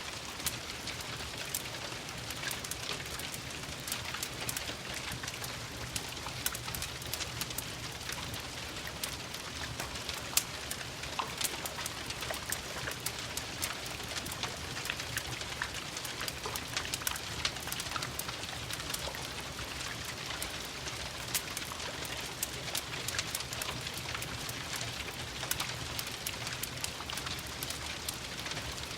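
Steady rain mixed with a crackling wood fire: a constant even hiss with frequent sharp pops and taps, one louder crack about ten seconds in.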